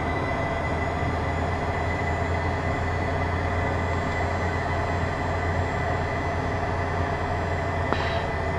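Twin turbofan engines of a Beechcraft Premier 1 jet running steadily with a low rumble and a constant high whine, heard in the cockpit while the jet is cleared for takeoff on the runway.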